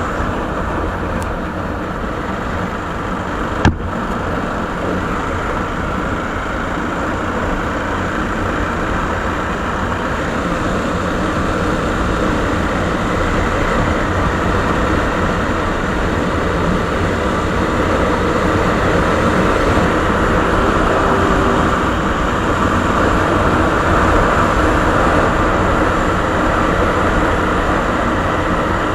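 Suzuki Savage (Boulevard S40) single-cylinder motorcycle engine running through its stock exhaust. It is a steady sound that grows gradually louder, with one sharp click about four seconds in.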